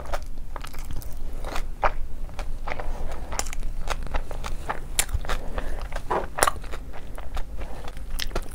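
Close-miked chewing and biting of food: wet mouth sounds with irregular crunchy clicks.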